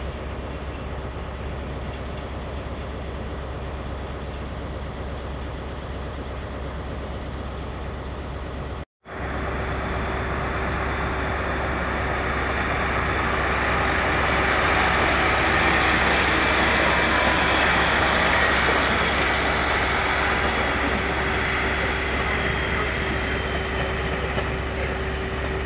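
Steady train rumble, cut off sharply about nine seconds in. Then a Class 150 Sprinter diesel multiple unit moves past, its engine and wheel noise swelling to a peak midway and slowly fading, with a steady hum underneath.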